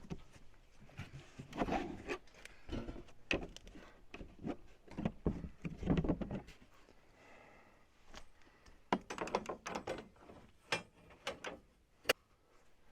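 Irregular knocks, clunks and rattles of handling a portable band sawmill during a blade change, with the blade tension just loosened.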